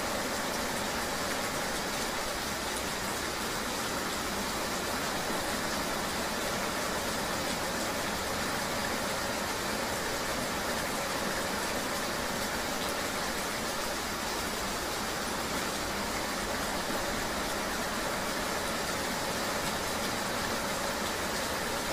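Steady ambient noise of riding in the rain: rain and road noise blended into an even hiss with no distinct events.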